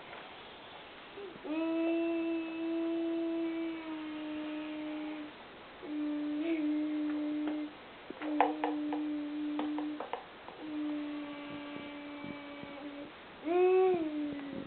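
A voice humming a string of long notes, each held at one steady pitch for one to two seconds, with a few sharp clicks about eight seconds in.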